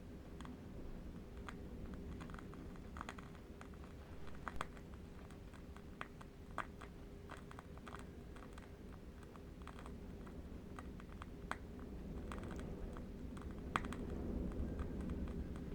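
Burning candle wick crackling: sparse, irregular small clicks, a few a second, over a steady low rumble of distant wind.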